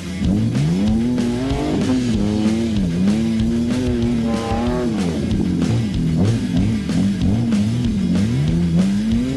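Holden Commodore's engine revving up and down again and again as the car slides around a dirt track, with guitar music playing over it.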